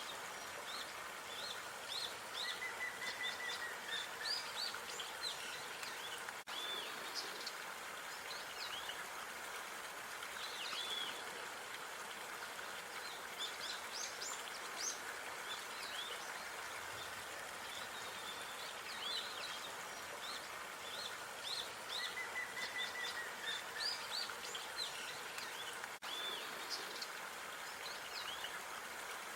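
Outdoor park ambience: many small birds chirping in short, high calls over a steady background hiss. A short trill about two and a half seconds in comes again around twenty-two seconds, as the recording repeats.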